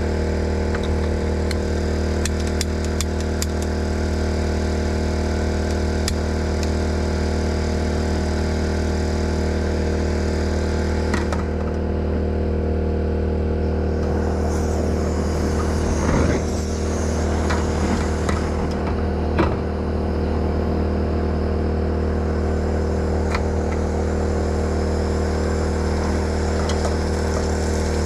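Portable generator engine running steadily at an even speed, with a few light clicks early on and a stretch of crackling noise around the middle.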